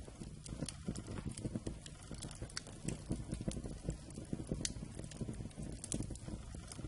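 Wood campfire crackling: irregular sharp pops and snaps over a steady low rumble of burning logs.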